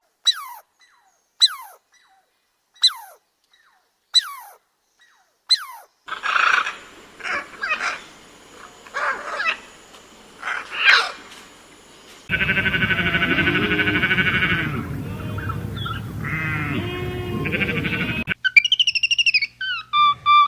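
A run of different animal calls. First come five short calls, each falling steeply in pitch, about one every 1.3 seconds. Rougher, noisier calls follow, then about six seconds of dense, continuous calling, and high chirps near the end.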